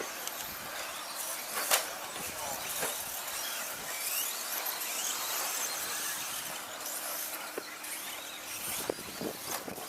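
Radio-controlled 2WD stadium trucks racing on the track, a steady high hiss of motors and tyres with faint brief whines. There are scattered sharp clacks of the trucks landing or hitting things, the loudest about two seconds in.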